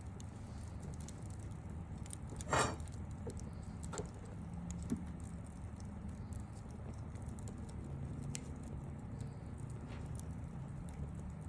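Wood campfire crackling, with scattered small pops and one louder crack about two and a half seconds in, over a low steady rumble.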